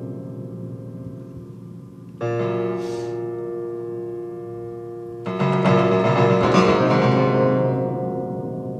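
Piano chords played on an electronic keyboard, each struck and left to ring: one about two seconds in, then a fuller, louder chord a few seconds later that slowly fades.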